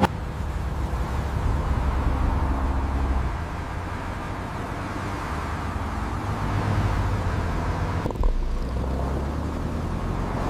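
Car driving: a steady low engine and road rumble, with a sharp click at the very start and a brief break in the sound about eight seconds in.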